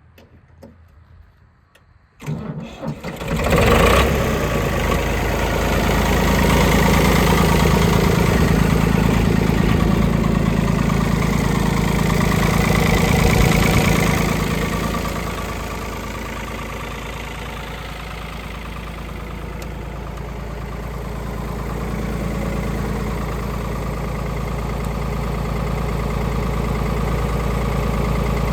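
A 1984 Ford 4610 tractor's three-cylinder engine is cranked and catches about two to three seconds in. It then runs at a fast idle, and about fifteen seconds in it settles to a lower, steady idle.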